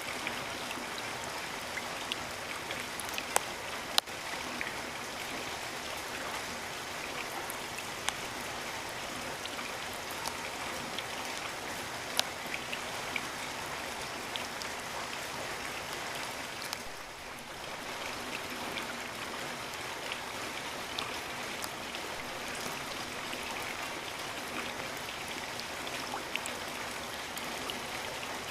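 Steady rain with scattered sharp, louder drops landing close by. The hiss dips briefly a little past halfway.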